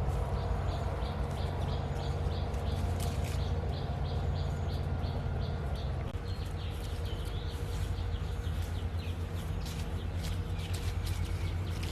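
A bird chirping repeatedly, a quick series of short high chirps about three a second, over a steady low rumble.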